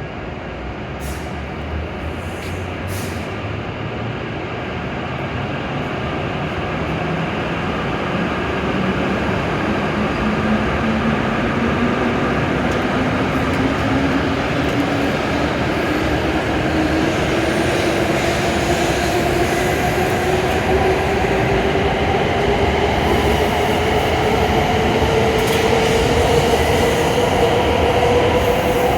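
W7 series Shinkansen train pulling away from the platform, its traction motors whining steadily higher in pitch as it accelerates, the sound growing louder throughout.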